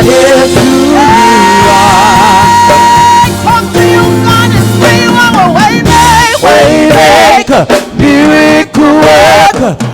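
Live gospel praise band music: singers holding notes with vibrato over full band accompaniment with bass and drums.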